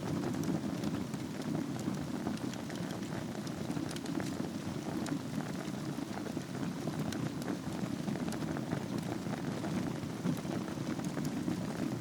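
Wood fire burning in a fireplace over glowing embers: a steady low rush of flame with small scattered crackles and pops.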